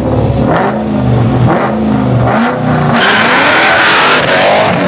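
Car engine blipped up and down several times, then held high with a loud hissing screech about three seconds in, as in a burnout with the tyres spinning.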